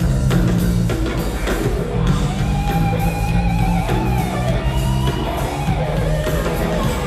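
Live rock band playing an instrumental passage: electric guitar over bass and drum kit, with a held, bending lead line through the middle.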